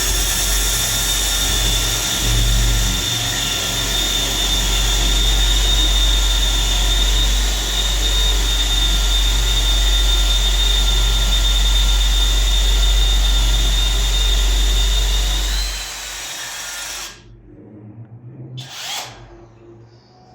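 Electric power tool cutting into a concrete wall, its motor running steadily under load for about fifteen seconds, then briefly speeding up and stopping. A few short knocks follow near the end.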